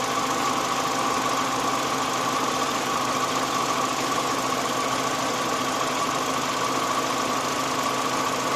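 Peugeot/Citroën car engine idling steadily, with a constant high whine running through it.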